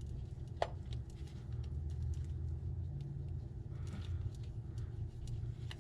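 A low steady hum with a few light clicks of a hand tool, as a wire terminal is tightened.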